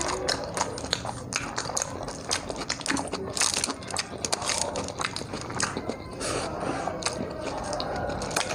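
Close-up eating sounds: chewing and biting with frequent irregular wet clicks and smacks of the mouth.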